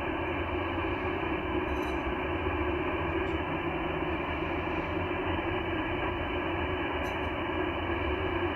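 Steady hiss of 40-metre band noise from an HF transceiver's receiver on 7 MHz, with no treble above its receive filter and faint steady FT8 tones buried in the hiss.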